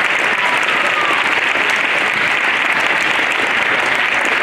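Audience applauding, a dense, steady, loud clapping.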